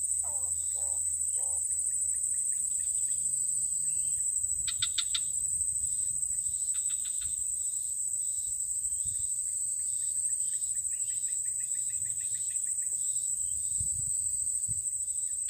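Steady high-pitched insect chorus, typical of crickets, with a few short trains of rapid chirping calls over it.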